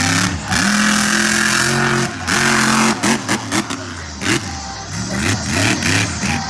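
Monster truck engine revving: held high for a couple of seconds, then a run of short throttle blips rising and falling in pitch.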